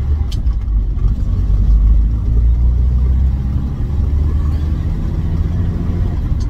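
Morris 1800S 'Landcrab' driving along, its 1.8-litre four-cylinder B-series engine running steadily under road and tyre rumble.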